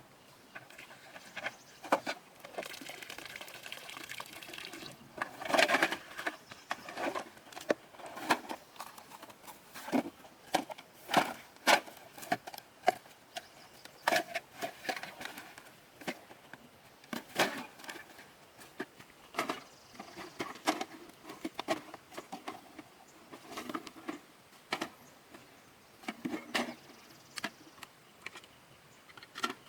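Irregular clicks and knocks in quick, uneven succession, with a few louder knocks and brief stretches of rustling noise.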